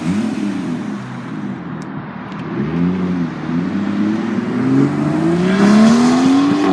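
Car engine revving in short rising-and-falling blips, then accelerating with its pitch climbing steadily for about two and a half seconds, loudest near the end.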